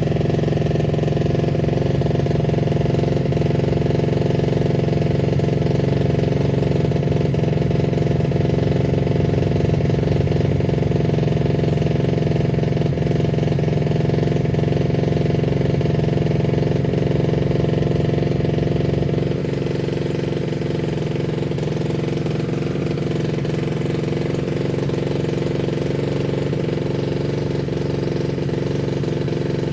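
Motocross bike engine idling steadily, dropping a little in level about two-thirds of the way through.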